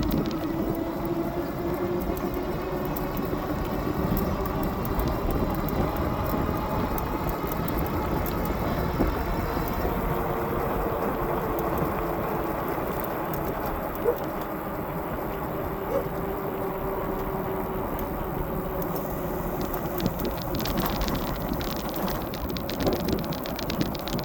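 Dual electric motors of a 60-volt fat-tire e-bike whining under way, the pitch climbing slowly as it speeds up and then holding steady. Underneath is a constant rumble of fat tyres and wind, with a couple of small knocks near the middle.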